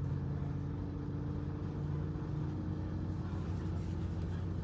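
Steady low hum of a running vehicle, a few even tones over a soft rumble.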